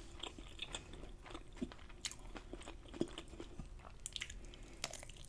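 Close-miked eating sounds: someone biting into and chewing a soft, sauce-dipped bite of food, with quiet wet mouth clicks and smacks scattered throughout and a few sharper ones.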